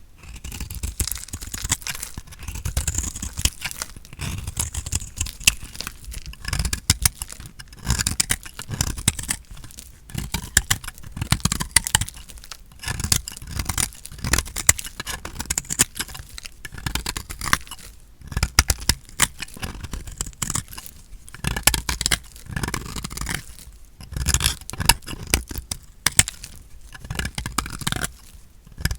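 Dry soap crunching and crackling as a knife cuts through it, in repeated strokes with brief pauses between them.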